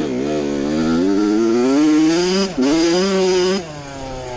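Suzuki RM85 two-stroke dirt bike engine opened up into its power band, the pitch climbing, dropping sharply about two and a half seconds in, climbing again, then falling back near the end. It has the buzzing note of a muffler borrowed from a four-stroke Apollo pit bike.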